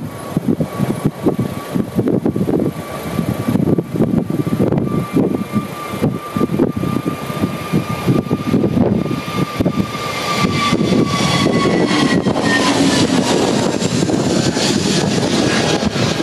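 Jet airliner passing close by, its engine whine growing louder and then dropping in pitch about three-quarters of the way through. Gusty wind buffets the microphone throughout.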